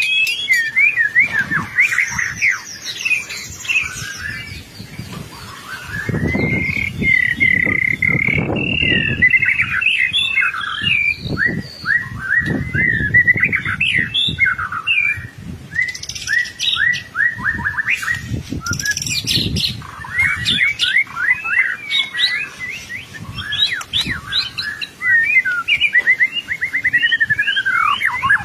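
White-rumped shama singing vigorously in full, continuous song: rapid, varied whistled phrases and trills, gliding up and down, with only brief pauses.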